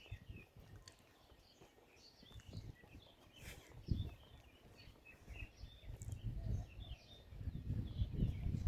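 Several birds chirping in many short, high calls, over soft low thumps of footsteps on the trail that grow louder near the end.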